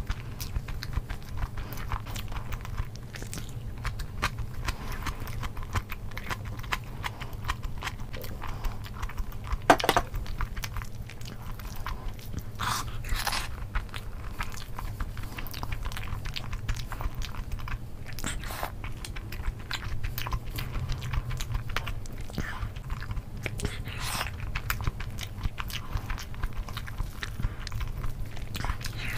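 Close-miked chewing and wet lip smacks of a person eating spiced rice with egg curry, a steady patter of small mouth clicks with a sharper smack about ten seconds in. Soft squishes of rice are gathered in the fingers now and then. A steady low hum sits underneath.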